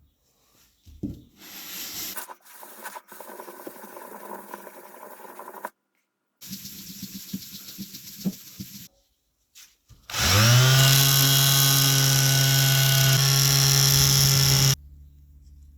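Electric power tool starting up, its pitch rising quickly to a steady high-speed run before it cuts off suddenly. Before it come several seconds of quieter scraping and handling noise from hand work.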